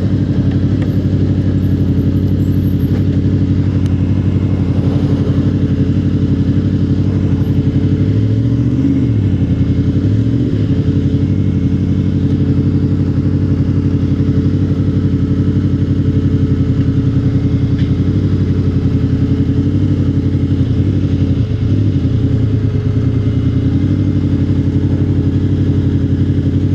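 Motorcycle engine running steadily, with a brief wavering in pitch about nine to ten seconds in.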